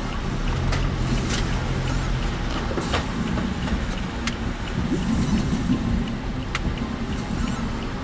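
Road and engine noise heard from inside a car driving in heavy typhoon rain and wind, a steady rush broken by a few irregular sharp ticks.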